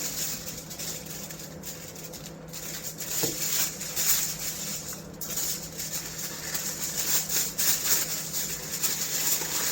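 Aluminium foil crinkling and rustling in irregular bursts as a sheet is torn off and pressed around a baking tray, over a steady low hum.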